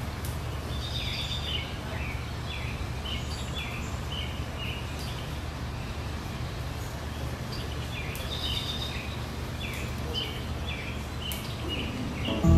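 A songbird chirping in two runs of short, quickly repeated notes over a steady low hum of background noise.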